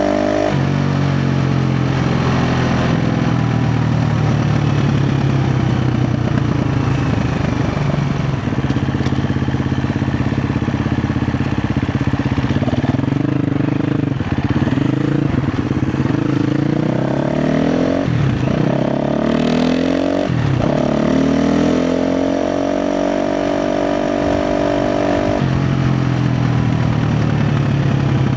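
KTM 350 XCF dirt bike's single-cylinder four-stroke engine running on the trail, its revs rising and falling with the throttle. It twice drops off sharply and picks back up about two-thirds of the way through.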